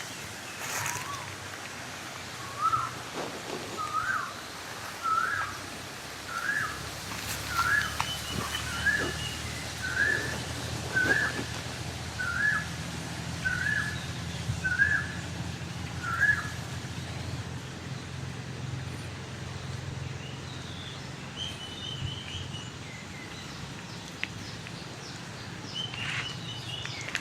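A bird calling a series of about a dozen short, upward-hooked notes, roughly one a second, stopping after about sixteen seconds. Later a few brief, higher chattering notes come from a bird, over a steady low rumble of wind on the microphone.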